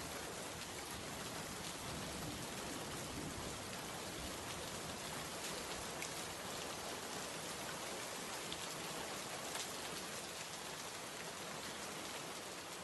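Steady rainfall: an even hiss of rain with scattered individual drop taps.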